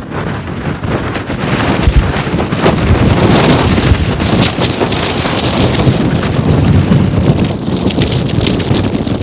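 Strong wind buffeting the microphone, a loud, gusty rumble that swells about a second and a half in and stays loud.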